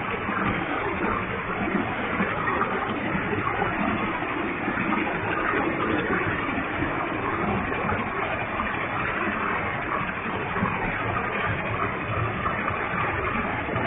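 Waterfall with a heavy flow, water falling and splashing in a steady rushing roar.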